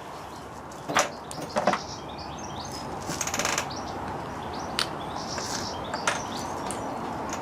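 Small birds chirping over steady wind noise, with two sharp clicks about a second and a second and a half in and a brief rustle around the middle.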